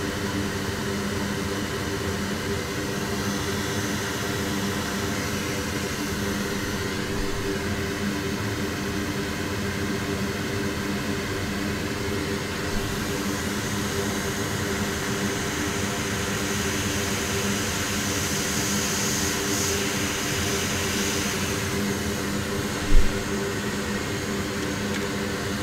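Steady whir and air rush of a hot air rework station blowing on a flex cable to soften it, over the hum of a fume extractor fan. One brief thump near the end.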